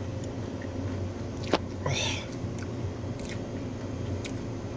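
A person chewing a mouthful of food, with faint mouth ticks over a steady low hum. There is one sharp click about a second and a half in, and a short breathy sound at about two seconds.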